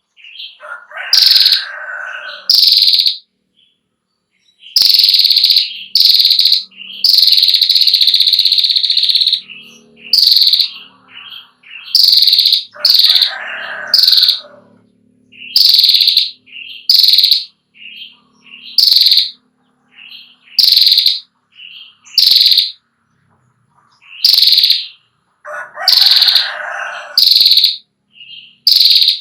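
Female prenjak klawu (a grey prinia) calling: loud, sharp high notes repeated about once a second, broken by longer rapid chattering trills ('ngetir'), the longest about two seconds, several seconds in. A few lower, harsher chatters come in now and then.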